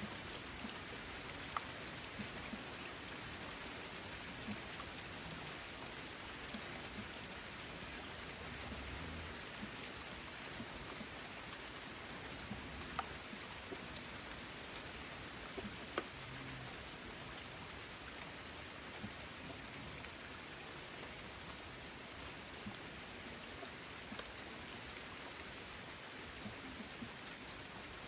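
Steady rain falling on a corrugated zinc roof: an even hiss with single drops ticking out louder here and there.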